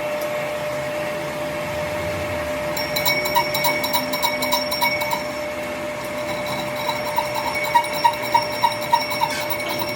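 Metalworking machinery running with a steady whine. From about three seconds in it is joined by regular metallic ticks, about three a second.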